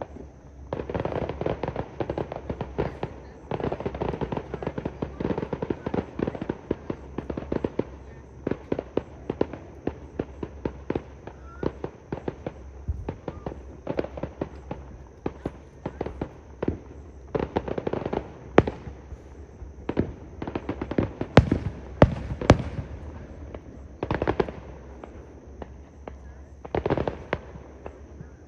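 Aerial fireworks display: rapid, dense crackling and popping bursts, with a few louder sharp bangs about two-thirds of the way through.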